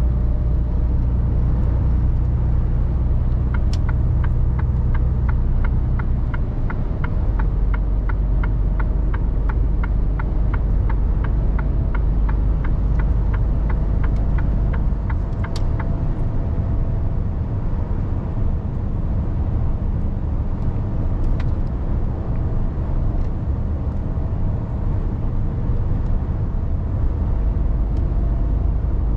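Mercedes Actros truck driving, heard from the cab: a steady low diesel engine and road rumble. Near the start a regular ticking begins, about two and a half ticks a second, and stops about halfway through, like a turn signal clicking.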